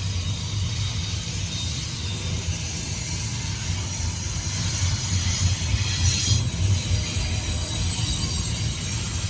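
Union Pacific intermodal freight train rolling past: a steady low rumble of the cars with a continuous high hiss of wheels on rail.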